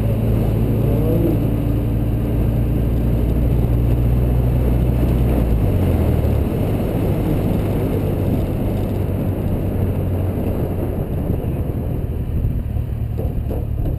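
Car engine pulling hard through an autocross run, heard from outside the car with wind and tyre rush on the microphone; the engine note drops a step about six seconds in.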